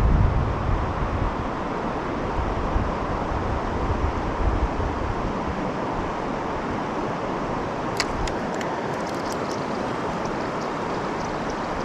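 River water rushing steadily, with wind buffeting the microphone at the start. A series of sharp clicks comes in near the end.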